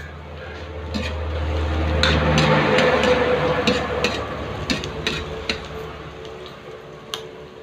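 Pieces of pork intestine sizzling in oil in a wide aluminium wok, the frying growing louder a couple of seconds in, with a metal ladle scraping and clicking against the wok as they are stirred.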